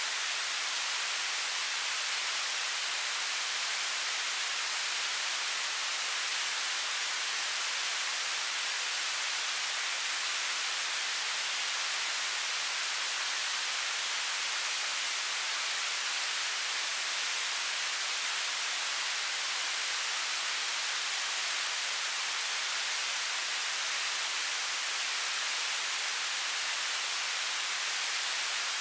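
Television static: steady, even hiss with most of its energy in the high frequencies and no change throughout.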